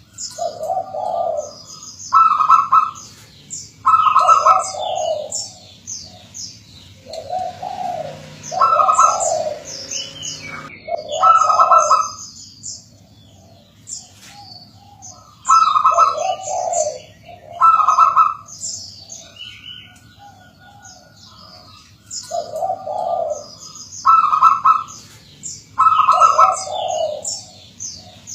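Zebra doves (perkutut) cooing in repeated short phrases every couple of seconds, each pairing a higher note with lower ones. High, quick chirps of small birds run over the cooing.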